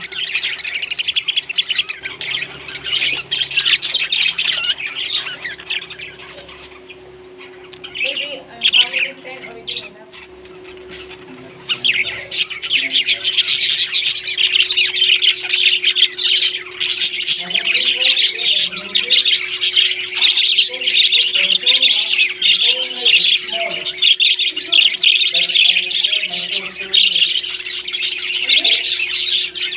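Pet parrots chattering and squawking in a dense, rapid run of high chirps and clicks. The chatter thins out for a few seconds in the middle and picks up again about twelve seconds in, over a steady low hum.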